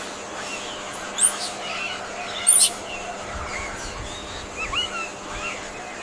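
Birds chirping: two loud, sharp high-pitched chirps about a second and a half apart, followed by fainter short chirps.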